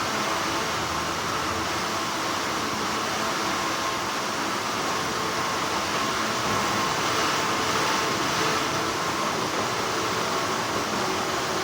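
Steady, continuous hum and hiss of textile factory machinery, with no distinct scissor snips standing out.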